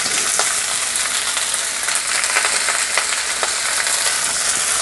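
Rice, pork and kimchi sizzling in a hot iron wok: a steady frying hiss with a few light clicks.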